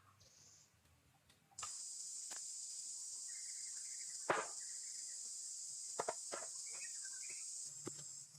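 Steady high-pitched insect chorus that comes in abruptly about a second and a half in, with a few sharp knocks over it, the loudest about halfway through, and some faint chirps.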